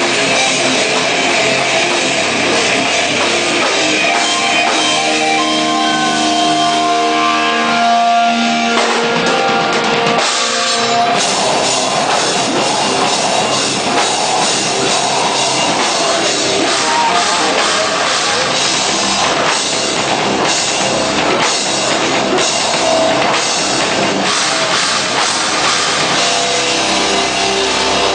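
Hardcore band playing live: loud distorted guitars over a drum kit. A few seconds in the guitars hold ringing notes, then around ten seconds in the full band comes back in with steady, dense drumming.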